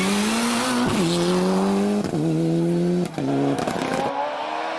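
Rally car engine at high revs, its pitch dropping abruptly with quick gearshifts about once a second.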